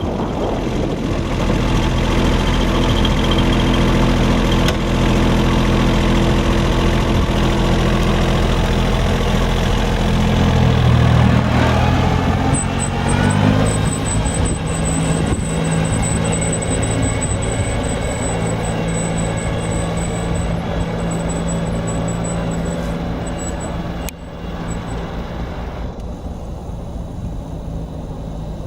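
Iseki compact tractor's diesel engine running steadily; about eleven seconds in its note rises and then holds at a new steady speed, with a thin high whine over it for a while. A sharp click comes near the end, after which the engine sounds a little quieter.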